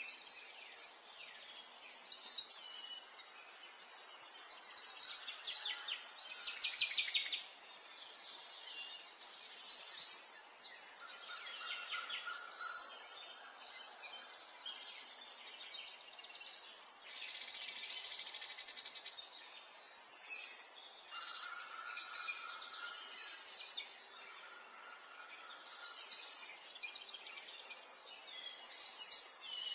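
Wild birds singing: short, high chirping phrases follow one another every second or two, with a longer buzzy trill a little past halfway.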